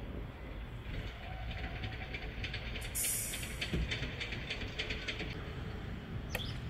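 E657 series electric train standing at a station with its equipment running: a steady low hum, a run of quick ticks and clicks, and a short burst of air hiss about three seconds in.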